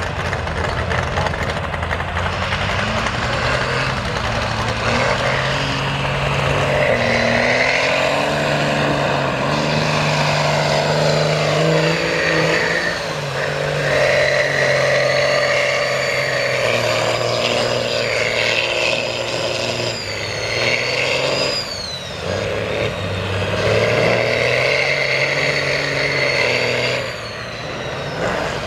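Mega truck engine revving hard in the mud, its pitch climbing and falling several times, with a high whine that rises and falls with the revs. The revs drop briefly about two-thirds of the way through and again near the end.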